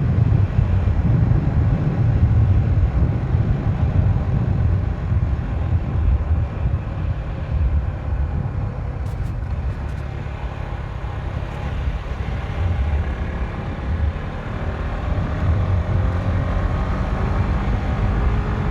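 Motorcycle on the move: steady wind rumble on the microphone with the engine running underneath, its faint note gliding in pitch as the speed changes.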